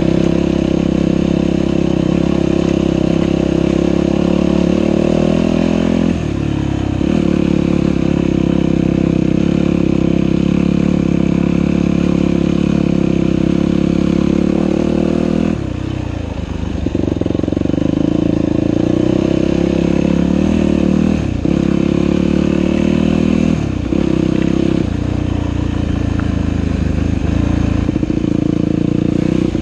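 Dirt bike engine running steadily under throttle on a trail ride, its pitch dropping briefly and climbing back several times, around 6, 16, 21 and 24 seconds in and again at the end, as the throttle is rolled off and back on.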